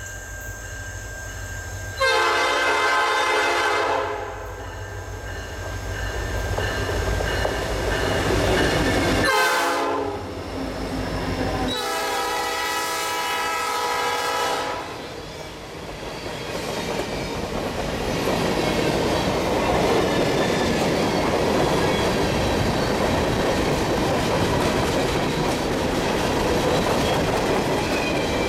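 Norfolk Southern freight train passing close by. The diesel locomotive's air horn sounds three blasts, long, short, long, over a low engine rumble. From about halfway on, the freight cars roll past with a steady loud rumble and clatter of wheels on rail.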